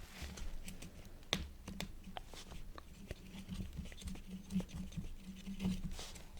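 Quill nib scratching across paper in short, irregular strokes, with many small sharp ticks.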